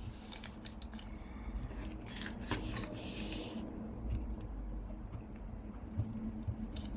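Paper and small craft tools being handled on a table: soft paper rustles and light clicks, with a longer rustle about three seconds in.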